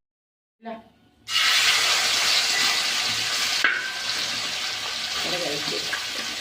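Spice-marinated fish frying in hot oil, a loud, steady sizzle that starts suddenly a little over a second in.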